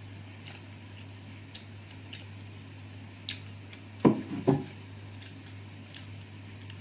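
Quiet eating at a meal: scattered small ticks of food and dishes being handled, with two short louder sounds close together about four seconds in, over a steady low hum.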